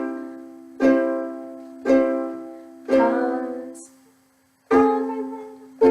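Ukulele chords strummed slowly by a beginner, one strum about every second, each ringing and fading before the next. The strumming stops briefly about four seconds in, then starts again.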